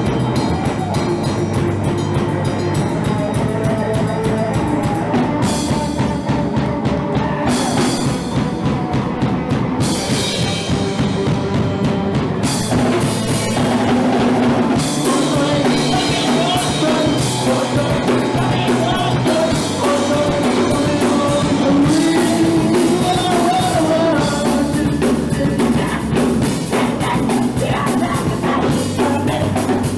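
Punk rock band playing live, with the drum kit driving the song and singing over the loud, dense guitar and bass.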